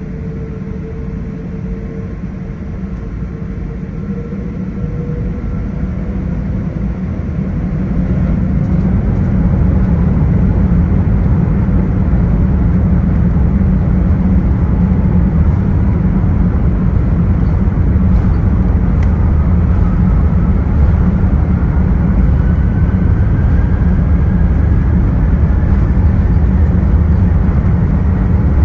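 Airbus A380 cabin noise heard from a lower-deck window seat. A steady low rumble of engines and airflow builds over the first ten seconds and then holds, while a faint whine climbs slowly in pitch.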